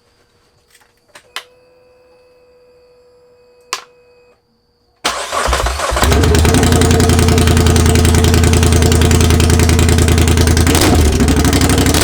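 Polaris Sportsman 850's engine started with its muffler removed, running loud and unmuffled straight out of the header. A couple of clicks and a faint electrical hum come first; the engine catches about five seconds in and settles to a steady, loud idle.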